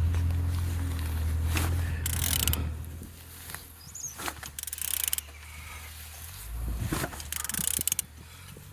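BMW N43B20A inline-four engine being turned over by hand with a ratchet on the crankshaft: repeated ratchet clicks and tool knocks, under a low hum for the first three seconds. The engine turns freely and shows compression.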